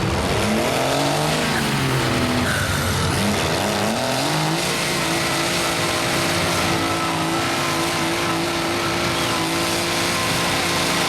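Mud truck engine revving: the pitch swings up and down a few times, then is held steady at high revs for about six seconds.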